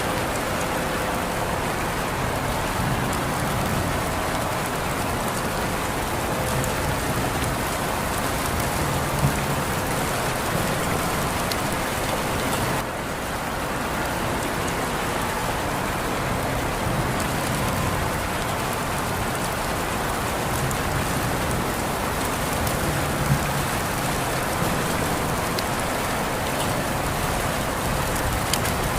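Steady rain falling, a continuous even hiss with occasional sharper drop ticks.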